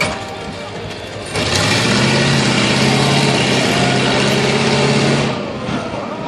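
Monster truck engine running loud and hard for about four seconds, coming in about a second and a half in and dropping back near the end, over steady background noise.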